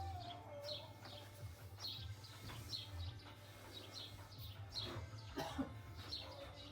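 A small bird chirping over and over, about two short chirps a second, over a steady low hum, with a few faint knocks about five seconds in.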